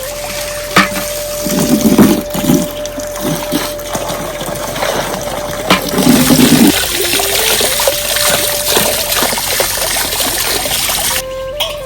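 Heavy rain falling with water running and splashing, a few sharp knocks and two louder low splashes, over a held note of soft background music that steps in pitch.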